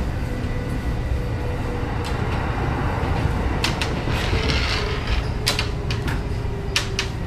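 Kintetsu electric train running: a steady low rumble with a faint steady motor tone, and sharp wheel clicks over rail joints from about three and a half seconds in. A rush of hiss swells at about four to five seconds as another train passes close alongside.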